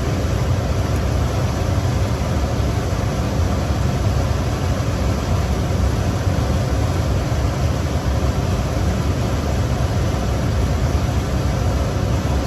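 Steady rushing noise, heaviest in the low end, with no distinct events.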